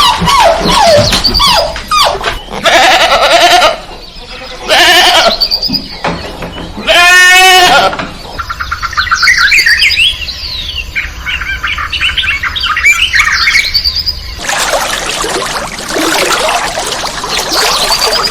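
A run of different animal calls, one clip after another: several wavering bleat-like calls, the loudest and most quavering about halfway through, then many quick bird chirps in the second half.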